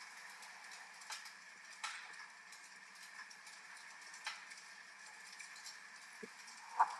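Wood fire crackling, with scattered sharp pops over a steady hiss of rain. A louder snap comes near the end.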